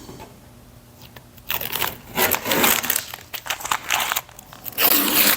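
Irregular bursts of crinkling and rustling, like sheet material being handled and crumpled. They start about one and a half seconds in and are loudest near the end.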